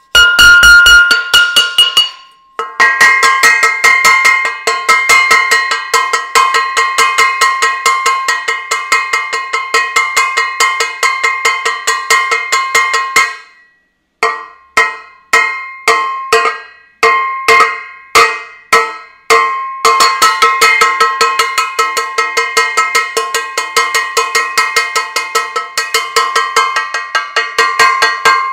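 A metal saucepan being banged repeatedly, each strike ringing on. Rapid strikes stop briefly twice, then come as a slower run of separate hits in the middle before speeding up again.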